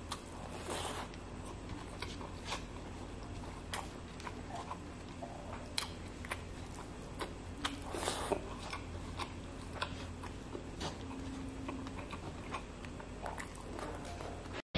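Close-up mouth sounds of a person eating rice and snakehead fish in yellow spice sauce by hand: wet chewing and lip smacks, irregular short clicks throughout.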